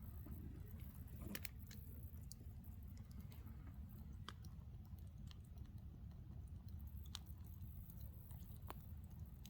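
Faint wood campfire crackling: irregular sharp pops and snaps over a low steady rumble.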